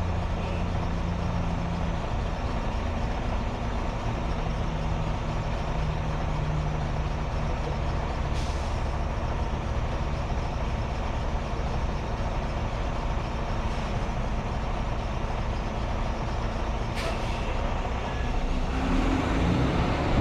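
Diesel engine of a semi-truck running steadily at low speed, a constant low drone.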